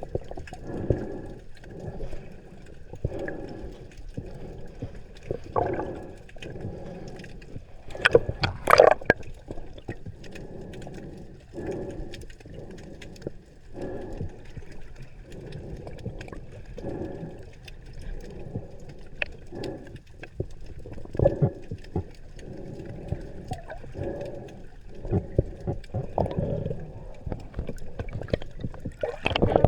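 Scuba diver's breathing heard underwater: exhaled air gurgling out of the regulator as bubbles in repeated bursts every couple of seconds, with a louder burst about eight seconds in.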